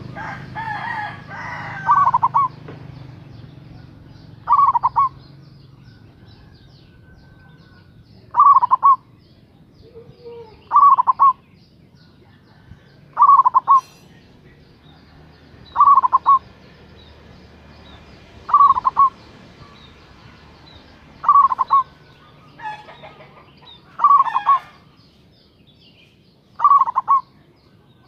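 Zebra dove (perkutut) singing its cooing song: a short burst of quick rippling coos, repeated about every two to three seconds, ten times.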